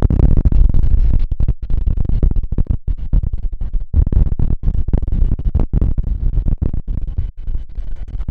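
Strong gusty wind buffeting the microphone: a loud low rumble that surges and cuts out irregularly.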